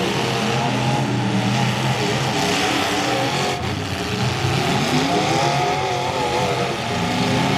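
Several demolition derby cars' engines running and revving at once, their pitches rising and falling over one another, with one climbing in pitch about four seconds in.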